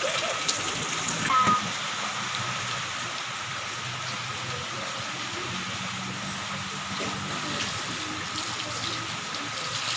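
Heavy rain pouring down with a steady hiss.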